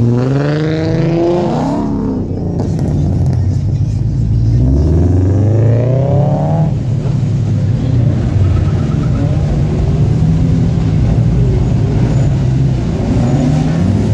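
Car engines accelerating hard, revving up twice, once at the start and again about five seconds in, over a continuous low rumble of engines.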